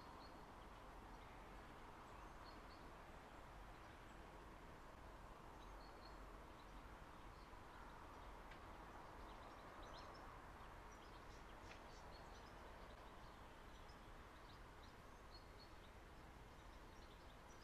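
Near silence: faint steady background noise with scattered short, high bird chirps.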